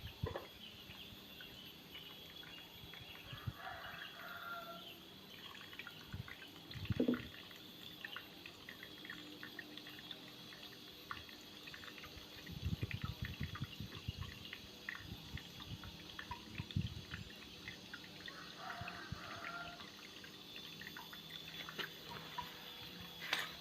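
Small homemade mini waterfall: water trickling and dripping, with many small drip ticks and a few low splashes or knocks in the middle.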